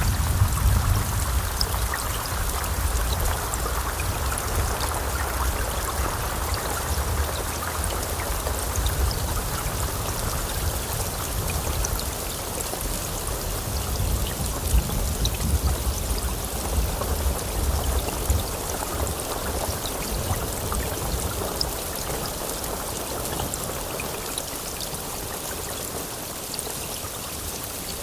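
Heavy rain falling steadily, with scattered drop ticks. A low thunder rumble, strongest at the start, slowly dies away.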